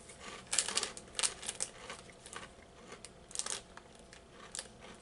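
Crunchy basil pesto mini breadsticks being bitten and chewed: irregular clusters of sharp crackling crunches, about five bursts.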